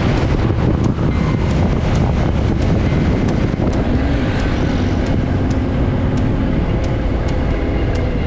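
Motorcycle running on the move, with wind rushing on the microphone; the engine note is faint under the wind noise.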